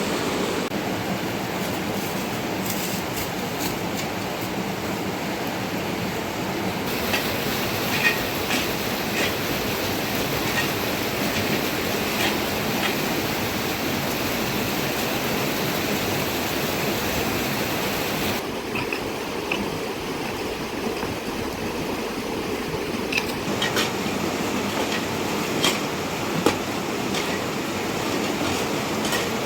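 Steady hiss of heavy rain with scattered sharp taps of drops or handling. The sound changes abruptly a couple of times, about seven seconds in and again past the midpoint.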